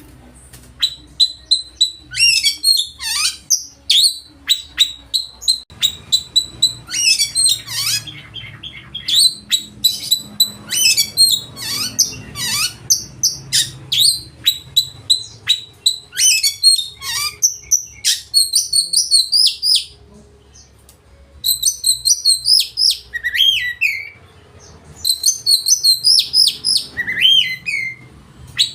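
Oriental magpie-robin (kacer) singing loudly: a fast, varied run of chirps, trills and sweeping whistles made of learned phrases. The song breaks off briefly about 20 seconds in and again about 24 seconds in.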